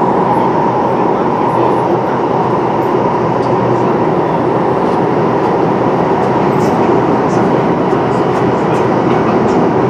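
MTR West Rail Line eight-car train running, heard inside the passenger car: a steady, even rumble with a constant hum.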